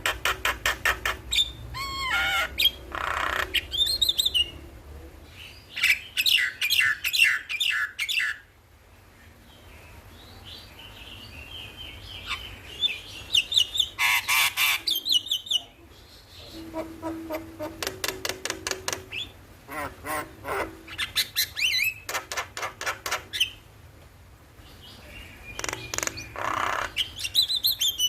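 Javan myna (jalak kebo) calling and singing: bursts of fast, harsh repeated notes alternating with gliding whistled phrases.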